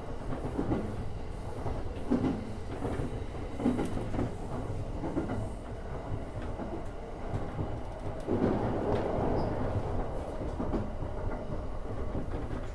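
E231 series electric commuter train running, heard from inside the front car: a steady rumble with a regular clatter of wheels over rail joints about every second and a half. The running noise swells louder about eight seconds in.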